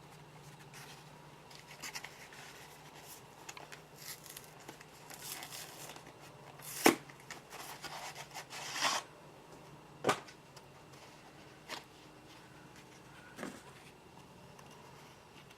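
Close-up rustling and scraping of hands working with potted succulents, broken by a few sharp clicks; the loudest click comes about seven seconds in, and another about three seconds later.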